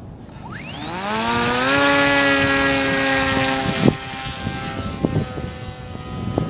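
Electric motor and propeller of a scratch-built RC model F-22 spinning up: a whine rising smoothly in pitch over about a second and a half, holding steady at full throttle, then easing back to a slightly lower, quieter whine about four seconds in, with a sharp click as it drops.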